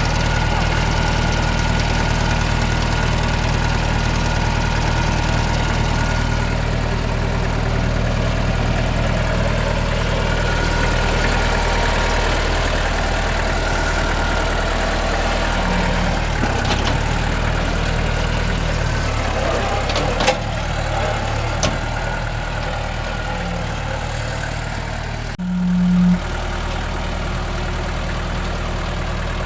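NorTrac 35XT compact tractor's diesel engine running steadily. A sharp click comes about two-thirds of the way through, and near the end the engine note briefly gets louder.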